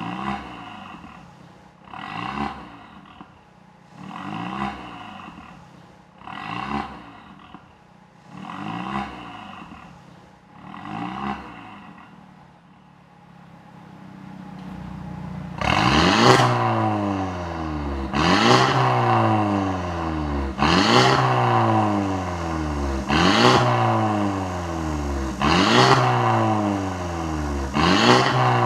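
Mercedes CLA250's turbocharged 2.0-litre four-cylinder (M270) revved in short blips through a catless downpipe and valved cat-back exhaust, each rev rising quickly and falling back. The first six blips are quieter with the exhaust valve closed; about fifteen seconds in the valve opens and six louder, rougher blips follow.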